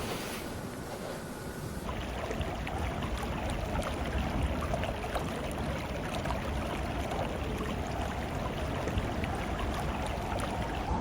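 A vehicle driving over a rough road: a low engine and tyre drone with small rattles and crunches. In the first two seconds there is a windy hiss instead.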